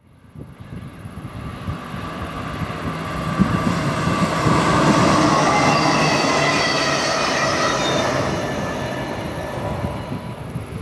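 A train running past on the line, growing louder over the first few seconds and then easing off slightly, with a steady whine of several tones over the rumble at its loudest.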